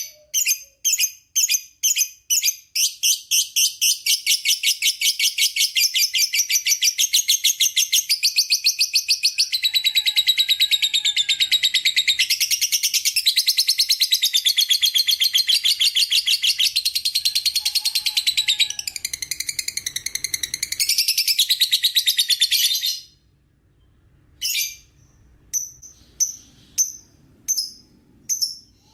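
Lovebird singing its long 'ngekek' chatter: shrill chirps that quicken into a fast, unbroken trill lasting about twenty seconds, then break off into separate chirps near the end.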